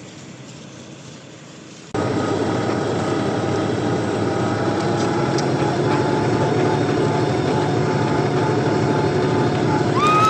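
A vehicle engine, most likely the tractor or car towing the sleds, running steadily close to the microphone. It starts abruptly about two seconds in after quieter background noise, and a short high tone sounds right at the end.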